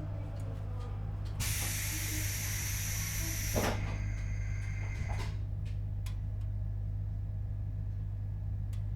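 JR Hokkaido 721 series electric train standing still, its equipment giving a steady low hum. About a second and a half in, a loud burst of compressed-air hiss lasts about two seconds and ends with a knock. A fainter hiss follows and cuts off suddenly about five seconds in.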